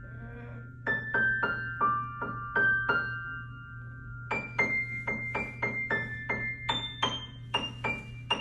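Piano played mostly one note at a time in a simple, halting melody, with short pauses between phrases: a child practising a piece he is still learning.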